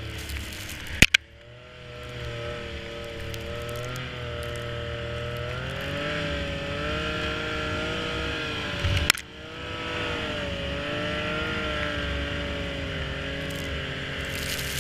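Snowmobile engine running, its pitch wavering and climbing a little about halfway through as the throttle changes. Two sharp knocks cut in, about a second in and again near nine seconds.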